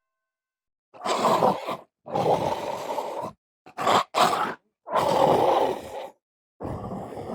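A run of dinosaur roars: about five gruff, growling bursts of under a second to a little over a second each, with short gaps between, starting about a second in.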